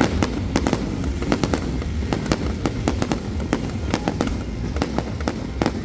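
Aerial fireworks going off in a rapid, irregular barrage of sharp bangs and crackles, several a second.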